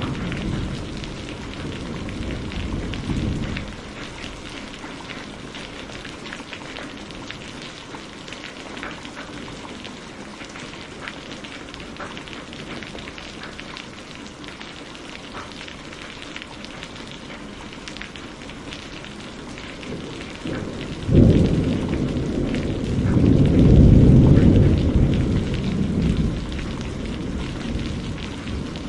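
Steady rainfall with thunder. A low rumble fades out in the first few seconds, then a sharp thunderclap comes about 21 seconds in, followed by a long rolling rumble that swells and dies away.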